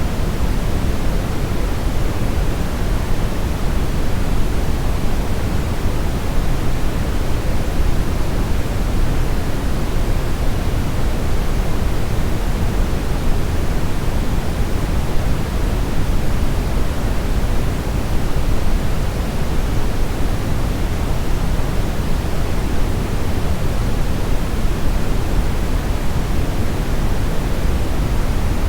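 Steady brown noise: an even, deep rushing hiss, heaviest in the bass and falling away toward the treble, with no change over time.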